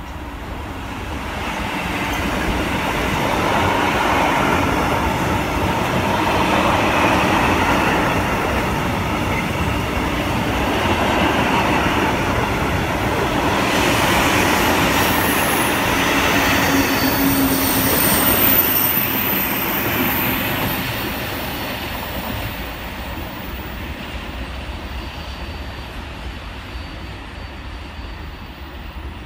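A Class 66 diesel locomotive hauling a freight train rumbles past, followed by a long rake of covered freight wagons rolling by with wheel squeal about halfway through. The sound then fades away as the train leaves.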